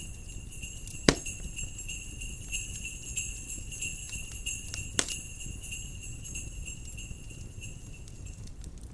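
Jingle bells shaking in a steady shimmering jingle that stops near the end, over a crackling wood fire with two sharp pops, about a second in and about five seconds in.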